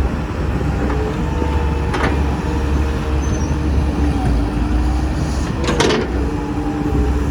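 Large hydraulic excavator's diesel engine running under load with a steady low rumble. A sharp knock comes about two seconds in and a quick cluster of knocks near the end, from the excavator's work in the soil.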